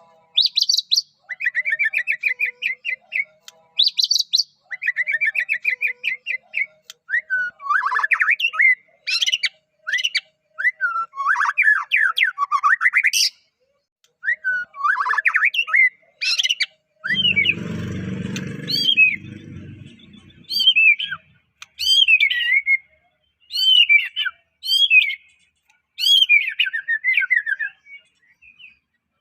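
White-rumped shama (murai batu, Medan type) in full song: a run of loud, varied phrases of rising and falling whistles, rapid trills and sharp chirps, separated by short pauses. A short burst of low rustling noise sits under the song about two-thirds of the way through.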